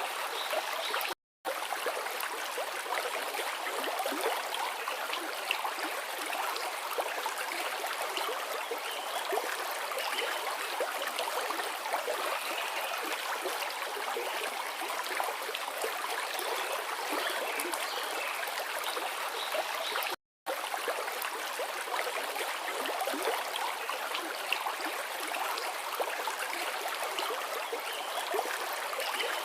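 A river flowing: a steady rush of water, broken by two very short gaps of silence, one about a second in and one about twenty seconds in.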